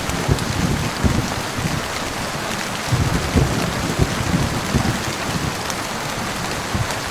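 Heavy rain falling steadily in a thunderstorm, with irregular low thumps and rumbles underneath.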